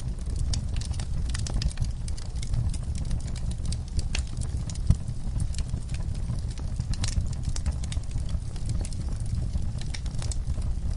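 Wood fire burning in a fireplace: a low steady rumble with irregular crackles and snaps, and one sharper pop about five seconds in.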